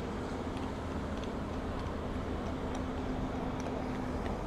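Steady machine hum with one held tone over a low outdoor rumble, with a few faint clicks scattered through it.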